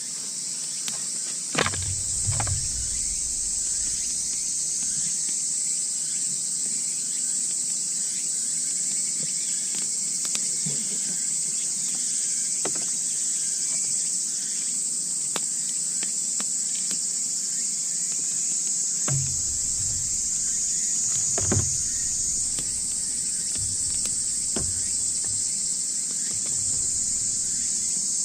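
A steady, shrill night chorus of insects, high-pitched and unbroken, dominates throughout. Scattered faint clicks and snaps and a few low knocks come over it, most of them about two seconds in and in the last third.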